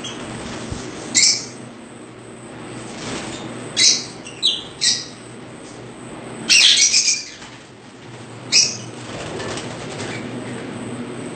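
Caged birds calling: several short, sharp calls scattered through, two quick ones in a row about four and a half seconds in and a longer, harsher burst around seven seconds. A steady low hum runs underneath.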